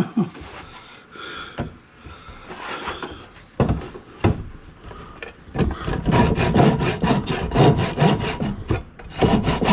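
Hand saw cutting through wood in quick, even back-and-forth strokes, starting about five and a half seconds in after a few scattered knocks, with a short break near the end.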